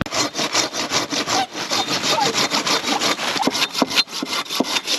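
Samurai Ichiban 330 hand saw cutting through a piece of firewood in rapid, even back-and-forth strokes, several a second, starting abruptly.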